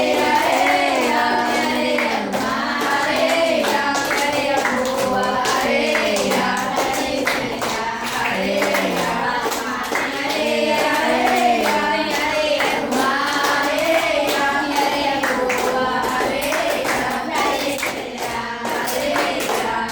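A group of voices singing a song together, with hand clapping along throughout.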